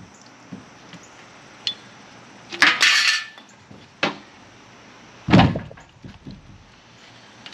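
Heavy tackling-sled parts being handled and set down: a light clink, a scraping rustle, a sharp knock, then a heavy thud, the loudest, a little past the halfway point.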